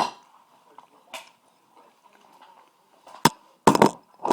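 A few short, sharp clicks and knocks, one at the start, another about a second in, and several close together near the end.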